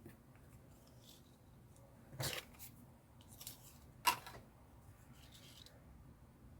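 Faint paper craft handling: a few short rustles of paper or card, with a sharper click about four seconds in.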